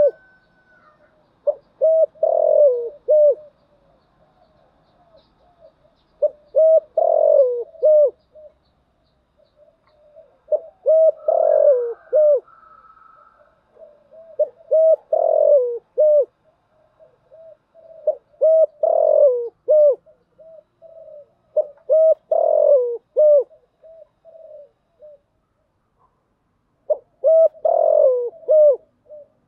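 Spotted dove cooing: repeated phrases of a few low, throaty coo notes, about one phrase every four seconds. This is a decoy call used to draw wild spotted doves in.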